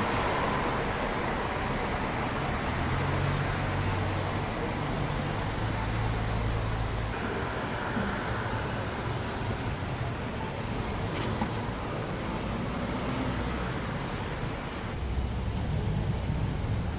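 Steady road noise of a car driving: a low engine hum under the rush of tyres and air. The engine note shifts about seven and again about fifteen seconds in.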